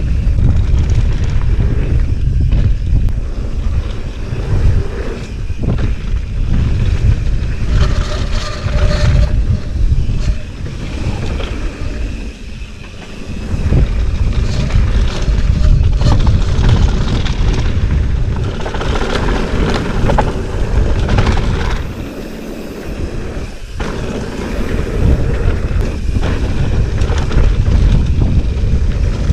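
Wind buffeting the camera microphone, a loud gusting low rumble that swells and drops, with faint outdoor ambience underneath.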